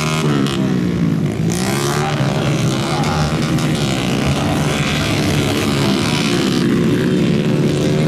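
Motocross motorcycle engine running, its pitch dropping in the first second or so and then holding fairly steady.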